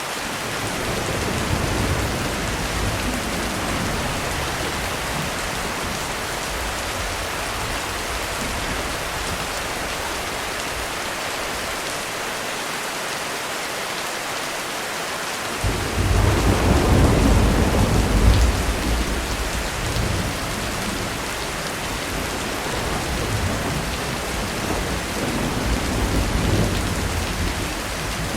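Heavy rain falling steadily during a thunderstorm, with rolling thunder. A low rumble swells about a second in and fades, a louder thunderclap breaks in suddenly about halfway and rolls on for several seconds, and another rumble swells near the end.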